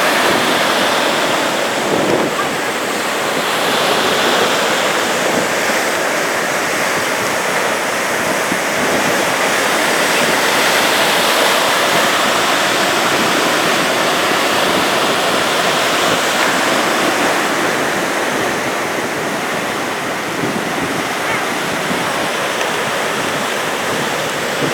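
Ocean surf breaking and washing up on a sandy beach, a continuous rushing wash that swells and eases slightly as the waves come in.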